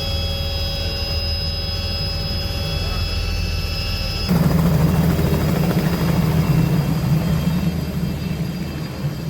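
Helicopter running, a steady turbine whine over the low drone of the rotor. About four seconds in the sound switches abruptly to a louder, lower rotor beat, and the whine drops away.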